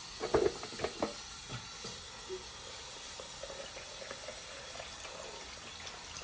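Steady hiss of running water, with a few sharp knocks in the first second.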